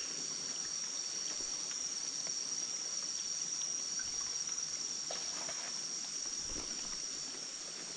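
Steady high-pitched chorus of rainforest insects such as crickets or cicadas, with a few faint ticks.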